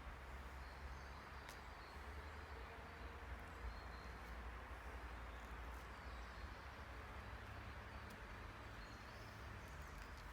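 Faint steady outdoor background in a forest: an even hiss with a low rumble underneath, a few faint ticks and brief faint high chirps.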